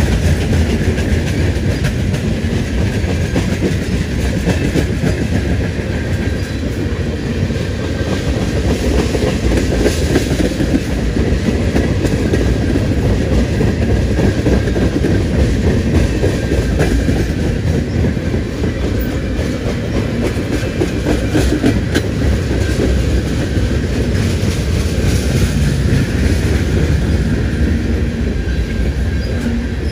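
CSX freight train's cars, open-top garbage hoppers and tank cars, rolling past close by: a steady loud wheel-on-rail rumble with rapid clicking of wheels over the rail joints.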